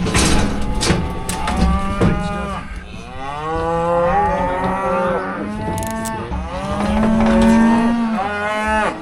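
Cattle mooing and bawling: several long, loud calls that overlap one another, as cow-calf pairs are loaded out.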